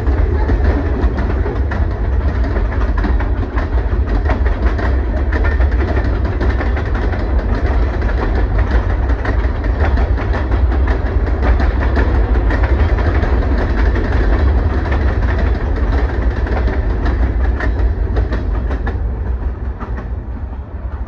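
Norfolk Southern freight cars (boxcars, then covered hoppers) rolling past close by: a steady low rumble with steel wheels clicking over the rail joints. The sound fades near the end as the last car goes by.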